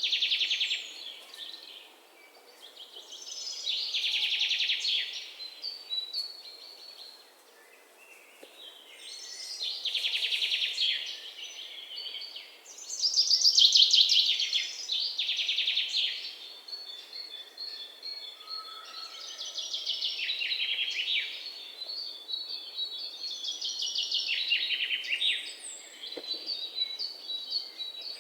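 Songbirds singing: bursts of fast, high-pitched trilled notes lasting a second or two each, repeated every few seconds, with fainter chirps in between.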